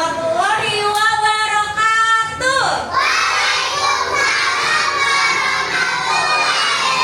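A group of young children singing loudly in long drawn-out notes, then about three seconds in breaking into a jumble of children shouting and calling out together.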